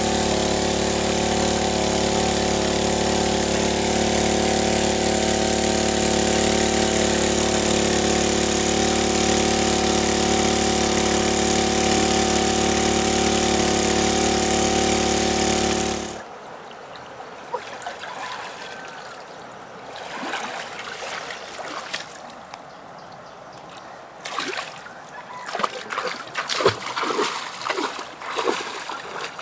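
A small engine running steadily at constant speed for about sixteen seconds, then cutting off suddenly. After it comes quieter water splashing with scattered knocks and clicks.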